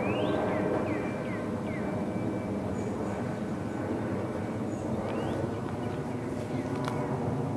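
A large passenger jet airliner passing overhead, its rumble slowly fading. Short, repeated rising chirps sound over it.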